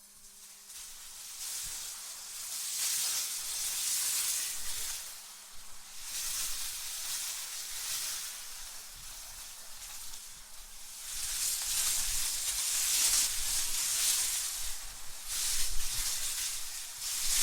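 Wind blowing in gusts: a high, hissing rush that swells a few seconds in, eases off around the middle, then swells again for longer in the second half, with a faint low rumble under the strongest gusts.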